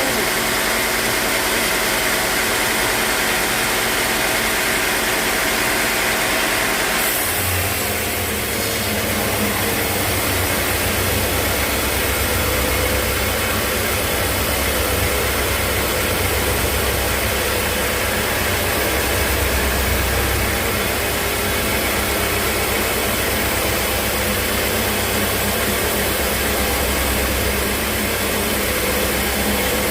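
Sawmill machinery running steadily. About seven seconds in the sound changes abruptly to a deeper, heavier hum.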